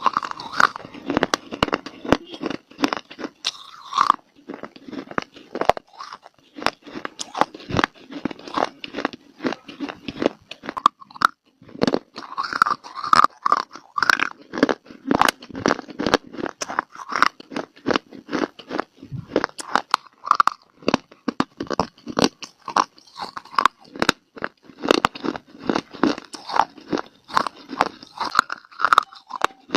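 Close-miked biting and chewing of hard, dry eating clay (mitti): a steady run of sharp crunches, several a second, as pieces are bitten off and ground between the teeth.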